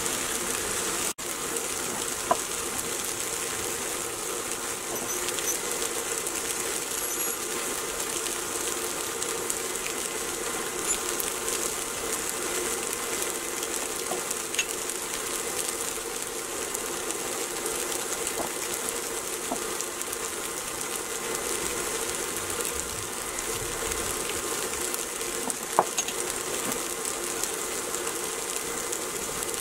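Slices of tofu sizzling steadily in hot sesame oil in a skillet, with a few sharp clicks. The sound cuts out for a moment about a second in.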